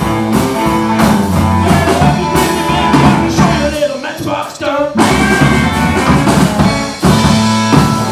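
Live rock and roll band playing with electric guitar, bass and drum kit, with some singing. About three and a half seconds in, the bass and drums drop out for a moment, leaving higher wavering lines, and the full band comes back in at about five seconds.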